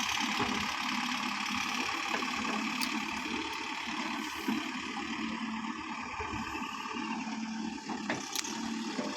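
JCB backhoe loader's engine running steadily with an even hum.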